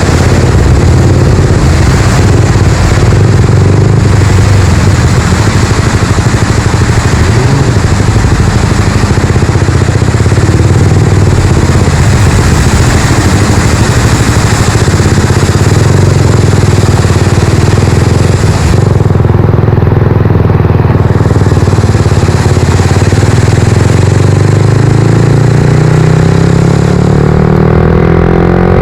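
Suzuki GSX-R125's single-cylinder engine running as the motorcycle rides along, under a steady hiss of rushing noise that thins for a couple of seconds partway through. The engine note rises in pitch as the bike accelerates near the end.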